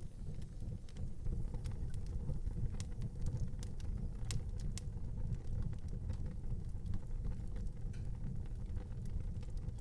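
Wood fire burning in an outdoor fireplace: a steady low rumble of flames with scattered small crackles and pops, one sharper pop a little under halfway through.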